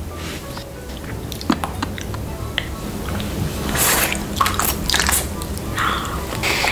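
A child biting and chewing a sprinkle-coated candy stick close to the microphone, with wet mouth clicks and bursts as the candy is pulled off its stick, over quiet background music.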